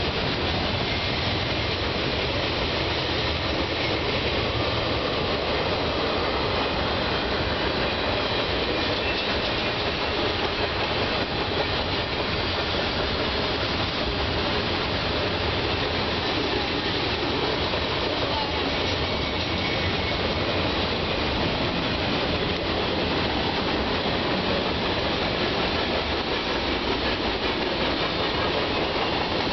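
Freight train cars (boxcars, tank cars and covered hoppers) rolling past at a steady speed, a continuous rumble of steel wheels on the rails.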